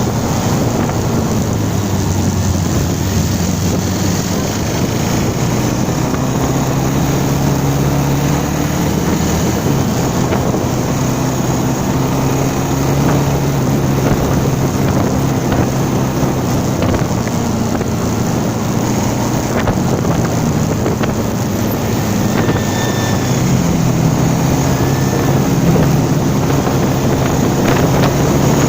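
A vehicle engine running steadily on the move, its pitch shifting a few times with speed, under rushing wind noise on the microphone.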